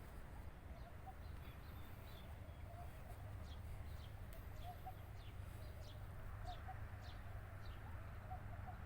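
Birds chirping, with quick repeated short falling calls, over a steady low rumble.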